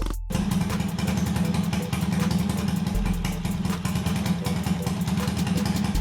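A mini bike's small petrol engine running steadily, with a rapid, even beat. It cuts in after a brief silent break just after the start.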